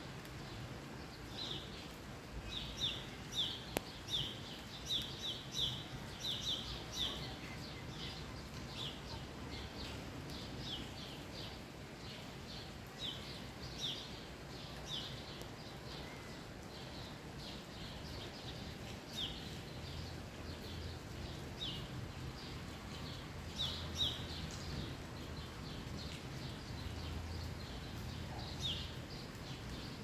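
A small songbird giving short, high chirps: a quick run of them in the first several seconds, then single chirps every second or few. Underneath is a steady low hiss of light rain.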